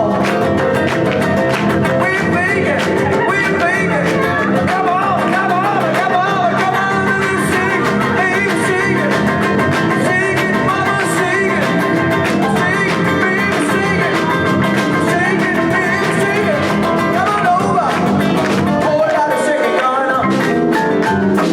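Live band playing a song: guitar lines with bends over a bass and drum rhythm, loud and steady throughout.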